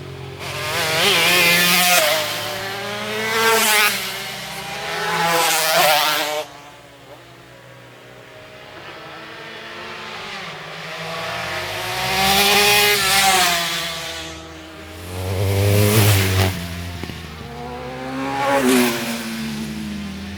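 Racing motorcycles passing at speed one after another, their engines revving high and sweeping in pitch as each goes by. The sound drops away suddenly about six seconds in, and more bikes pass in the second half.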